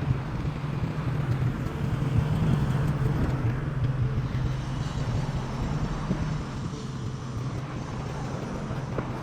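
Street traffic, with the low steady hum of vehicle engines running; it swells slightly a couple of seconds in, as if a vehicle passes close.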